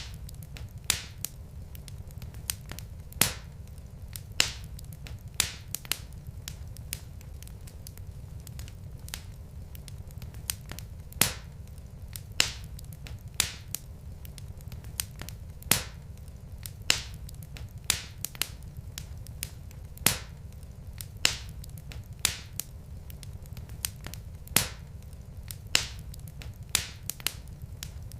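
Wood fire of burning logs crackling in a fireplace: irregular sharp pops and snaps, about one a second, over a steady low rumble.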